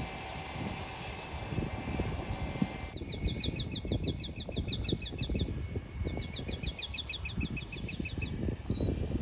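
Distant jet aircraft engine noise with a steady whine, cut off abruptly about three seconds in. Then a bird sings two quick trills of rapidly repeated high chirps, over a low rumble.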